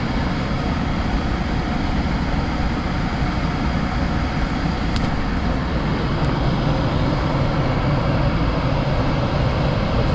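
Furnace blower fan running steadily during its purge cycle, a constant rush of moving air. A couple of faint ticks about five and six seconds in.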